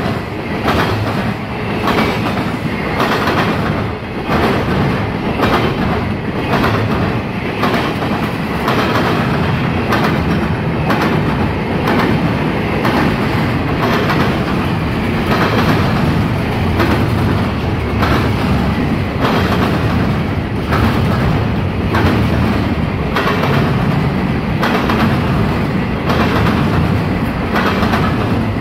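CSX double-stack intermodal freight train rolling past: a steady rumble of the passing well cars, with the wheels clacking over the track in a regular rhythm.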